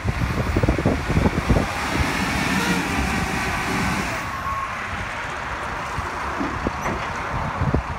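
Caterpillar TL1255C telehandler's diesel engine running steadily, with wind buffeting the microphone over the first couple of seconds.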